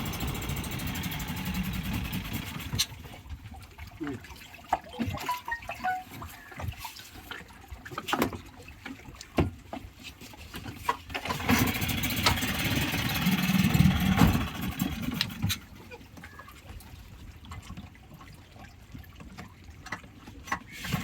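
Small passenger boat's engine being started and running unevenly, loudest for a few seconds in the middle, with scattered knocks and water sounds.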